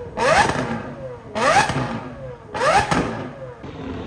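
A performance engine revved in three quick blips about a second apart. Each rev sweeps sharply up in pitch and then falls back toward idle.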